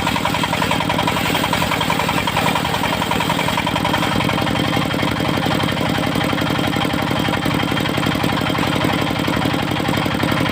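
Engine of a portable circular sawmill running steadily, with a fast, even pulsing beat and no change in speed.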